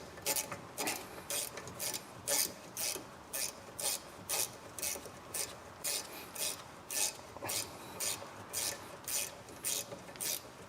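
Ratcheting wrench on a brake-caliper bolt, rasping on each back-swing in an even rhythm of about two strokes a second. The bolt keeps turning along and won't tighten.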